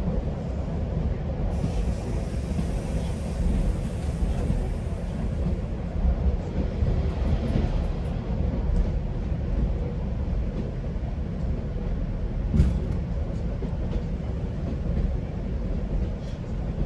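Steady low rumble of a GO Transit passenger train running along the track, heard from inside the coach. A hiss rises over it in the first several seconds, and there is one sharp clank about twelve and a half seconds in.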